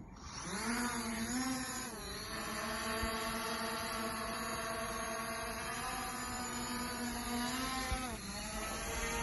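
Small camera quadcopter drone's motors spinning up into a steady whine, the pitch rising at first, dipping briefly about two seconds in and again near the end.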